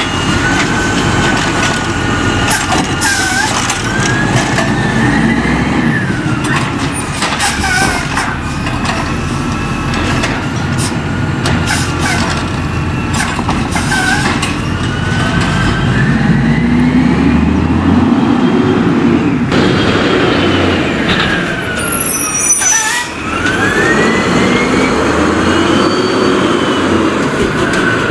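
Condor refuse truck with a Curbtender recycling body at work: its engine and hydraulic whine rise and fall again and again. Short clunks and hisses come now and then.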